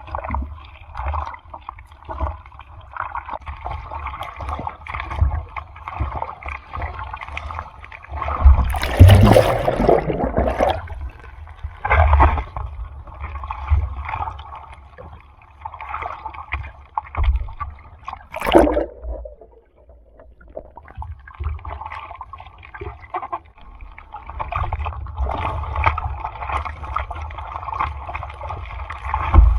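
Sea water sloshing and splashing close to the microphone, with one big splash about a third of the way in and a short sharp one just past the middle.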